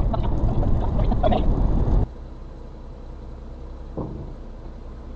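Cab noise inside a Suzuki Carry kei truck: loud rumble and rattling from driving over rough ground for about two seconds. It then cuts off suddenly to a much quieter steady low hum of its 660cc engine, with one short knock about four seconds in.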